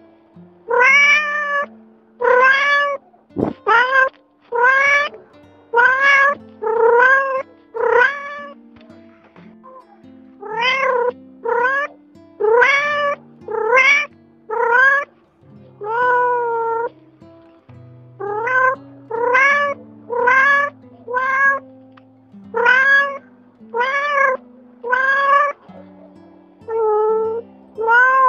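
Domestic cat meowing over and over in short calls that rise in pitch, one to two a second with a couple of brief pauses, over soft background music with low held notes.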